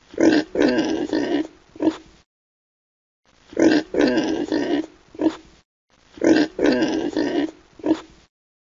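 A pig grunting and oinking in three bursts of about two seconds, each a run of four or five short grunts. The bursts are near-identical: the same recording played three times.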